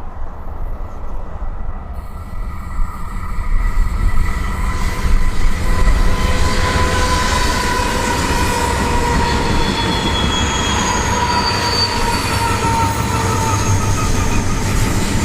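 Train rolling by with a low rumble and its wheels squealing in several high, slowly drifting tones, growing louder over the first few seconds and then holding steady.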